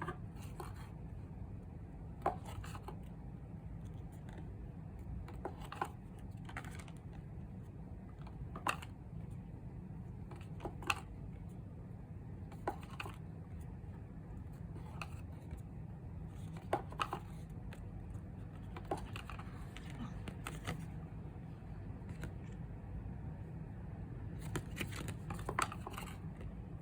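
Stiff paper postcards being handled and flipped through: scattered light clicks and taps every second or two over a steady low hum.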